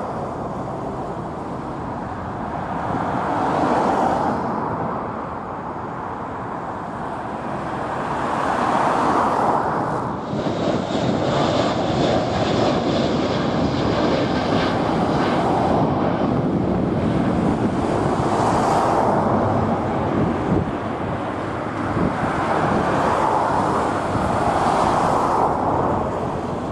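Jet airliner engines at takeoff power, a continuous rushing drone that grows fuller from about ten seconds in, with wind gusting on the microphone and road traffic behind.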